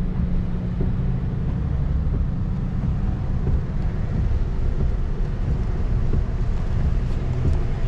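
Car driving along, a steady low engine and road rumble heard from inside the cabin, with some wind buffeting the microphone.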